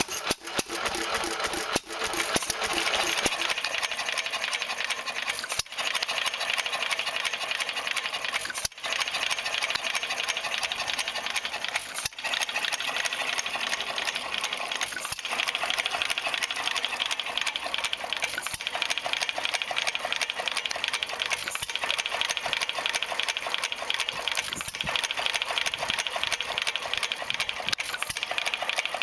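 Small vintage stationary engine running steadily, with a fast, even mechanical clatter of valve gear and ignition.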